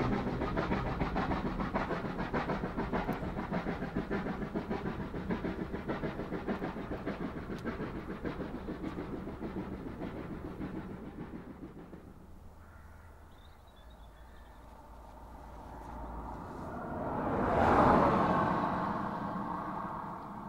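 Train carriages' wheels rolling away along the track, a rhythmic clatter fading steadily over about twelve seconds. Later a rushing noise swells, peaks a little before the end and dies away.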